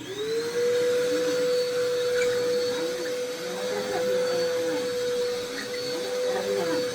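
Vacuum cleaner switched on: its motor spins up within about half a second to a steady whine, then runs at full speed.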